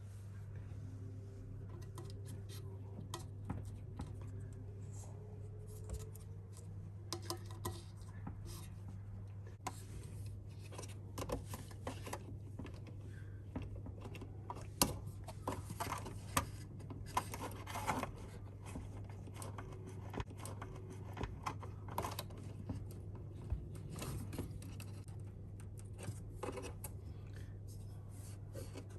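Scattered clicks, taps and scraping of parts and tools being handled, at an irregular pace and busier after about ten seconds, over a steady low hum.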